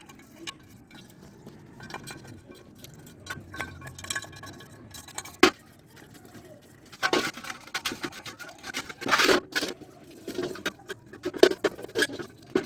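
Irregular metallic clinks, taps and scraping from hand work on a motorcycle engine side cover, with a sharp click about five seconds in and busier scraping and knocking in the second half.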